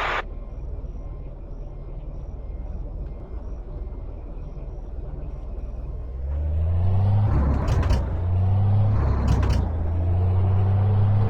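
Truck engine running with a low rumble, then growing much louder about six seconds in as a deep drone under load, with a couple of brief clicks.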